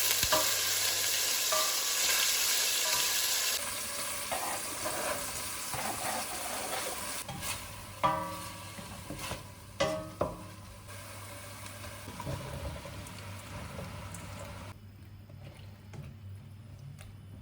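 Food sizzling and frying in a pan while it is stirred, with a utensil scraping and clinking against the pan a few times. The sizzle is loud for the first few seconds, then quieter, and fades further near the end over a faint low hum.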